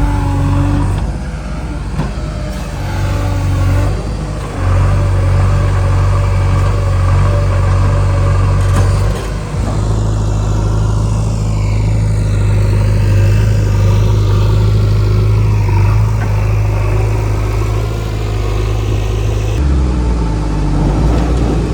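Heavy diesel engine running steadily, its note stepping up about four and a half seconds in and shifting again about halfway through.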